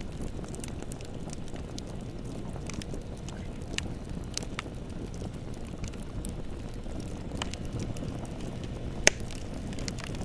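Bonfire burning: a steady low rush of flames with scattered crackles and snaps, and one sharp pop about nine seconds in.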